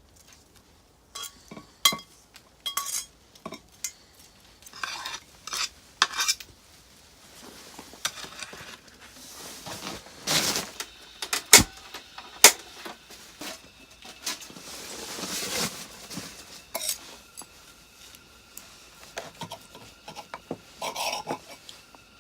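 Utensils clinking and scraping against camping cookware: a run of sharp ringing clinks in the first few seconds, then longer scraping strokes in the middle, and a few more clinks near the end.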